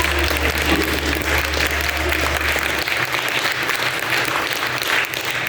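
Concert audience applauding at the end of a song. A low held tone from the stage rings on underneath and stops about halfway through.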